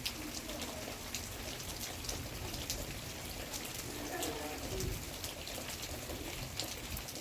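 Steady rain falling, with the sharp ticks of single drops hitting a surface.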